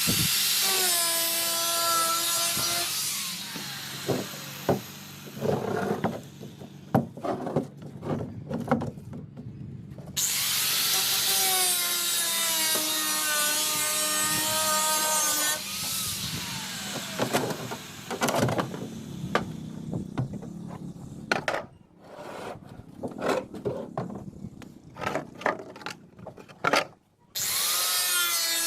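A handheld power cutting tool cutting through a fiberglass pillar in three long runs, its whine dipping in pitch as it bites and then holding steady. Between the runs come scattered knocks and clicks as the piece is handled.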